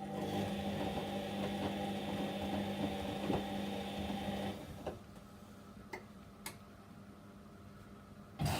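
Whirlpool washing machine on a delicate wash: the motor hums as it turns the drum for about four and a half seconds, then stops, two faint clicks come during the pause, and the drum starts turning again just before the end. This is the start-stop tumbling of the wash phase.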